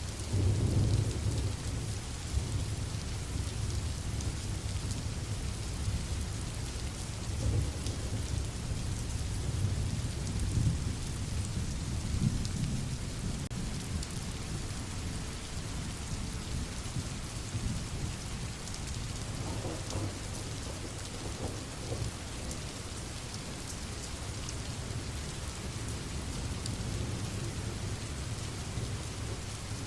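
Steady rain falling, with low rolling rumbles of thunder, the heaviest just after the start and more between about 7 and 12 seconds in.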